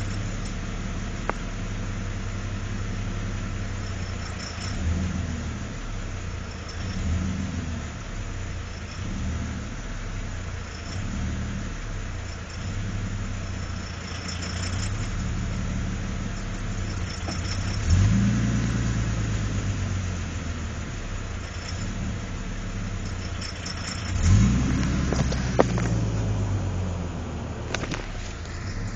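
GM 3800 Series II V6 idling in a Camaro with a knocking tick, its revs surging and dipping on their own; the owner suspects a lifter. The throttle is blipped twice, about 18 and 24 seconds in, with the revs rising and falling back each time.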